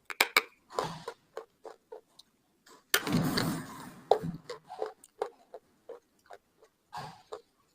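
Slate pencil being crunched and chewed close to the microphone: a run of short, sharp crunches, with one longer, louder crunch about three seconds in.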